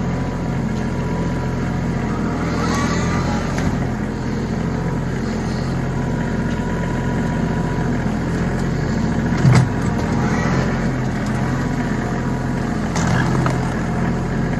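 Tractor engine running steadily while pushing a dead tree. A single sharp knock sounds about halfway through.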